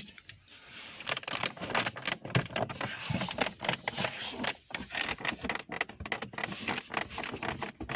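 Plastic dashboard trim of a Volkswagen Passat B7 creaking and clicking in a dense, irregular run of small clicks and crackles. This is the dashboard creak the model is known for.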